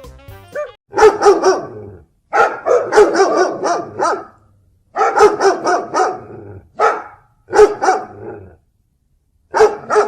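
Dog barking in rapid volleys of several barks each, with short pauses between volleys.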